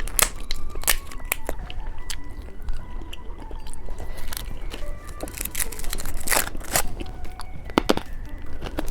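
Irregular crackles and clicks of plastic candy packaging being handled and opened, with a few louder snaps a little past the middle.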